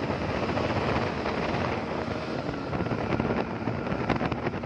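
Wind rushing over the microphone on a moving motorcycle, with the engine's steady hum underneath.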